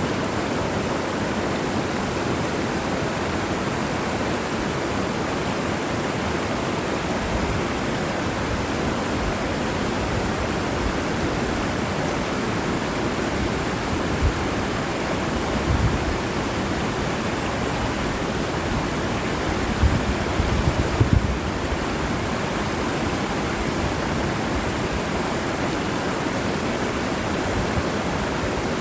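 Mountain stream rushing steadily through a valley, a constant even wash of water noise. A couple of brief low rumbles break in around the middle.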